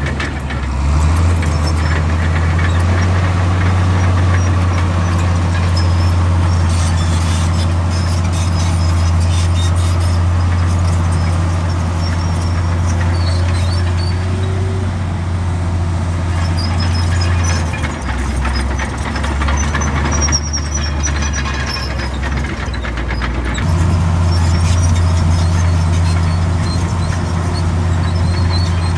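Komatsu D65 bulldozer working, its heavy diesel engine running with a steady low drone and squealing and clanking from the steel tracks. The engine note drops about 18 seconds in and picks up again about 23 seconds in.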